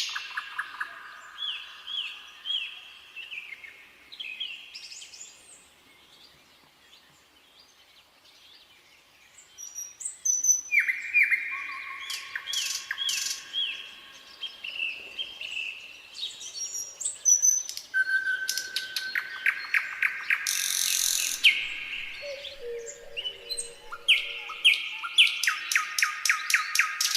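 Nightingale singing: phrases of fast repeated notes and rattling trills, broken by pauses. There is a quiet gap of a few seconds before the song resumes, and several bursts of rapid repeated notes come near the end.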